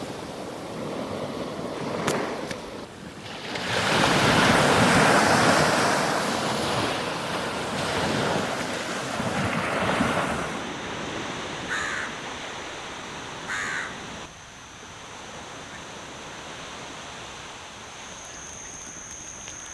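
Sea waves breaking and washing up a beach, one big surge of surf about four seconds in, then quieter wash. A bird calls twice near the middle.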